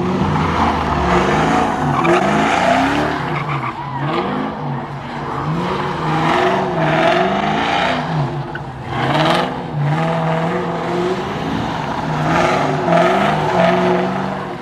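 Car engine revving up and down many times, its pitch rising and falling, with several loud stretches of hissing, screeching noise over it.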